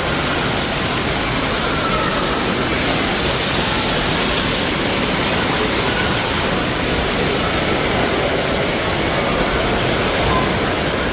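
Steady, loud rushing of water in an indoor water park, with faint distant voices echoing through the hall.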